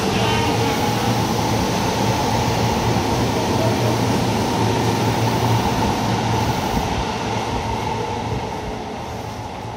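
Tobu 9000 series electric train running through a subway tunnel, heard from inside the car: a steady rumble of wheels on rail with a thin steady whine over it, growing somewhat quieter near the end.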